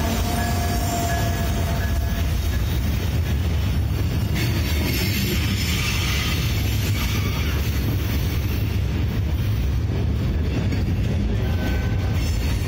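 Norfolk Southern freight train passing close by, first the trailing end of the locomotive and then open-top hopper cars, with a steady, loud, deep rumble of steel wheels rolling on the rails.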